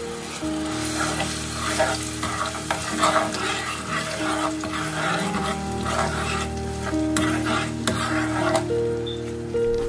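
Blended garlic paste sizzling in hot palm oil in a metal pot, stirred with a spoon that scrapes against the pot in irregular strokes. Background music plays throughout.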